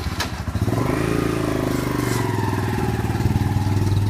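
A vehicle engine running steadily, with a low hum whose pitch rises a little about a second in.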